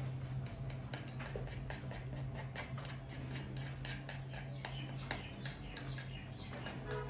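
A person chewing and smacking a mouthful of noodles, a rapid run of small wet clicks and smacks, with chopsticks tapping a wooden bowl, over a steady low hum.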